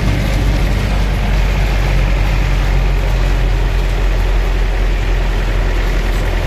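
Heavy rain falling steadily, with a vehicle engine running underneath as a steady low rumble.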